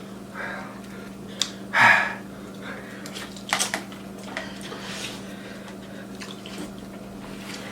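Eating sounds from spicy ramen noodles: wet slurping and mouth noises, with a short loud one about two seconds in and a few light clicks, over a steady low hum.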